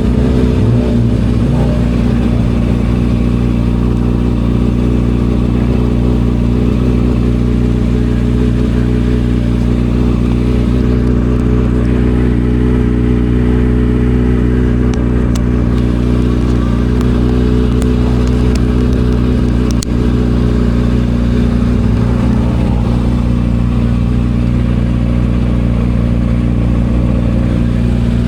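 Kawasaki ZX-6R inline-four with an aftermarket M4 exhaust idling steadily at a constant pitch, with a few faint clicks partway through.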